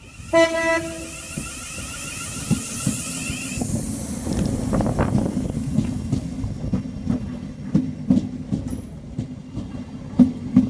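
Train horn giving one short blast, then a train running past with a steady rumble and wheels clicking over rail joints.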